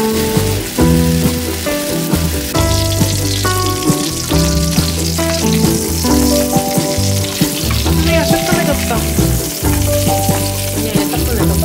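Food frying in a pan, the oil sizzling louder a few seconds in as hamburg steak patties cook, under background music with a melody and bass line.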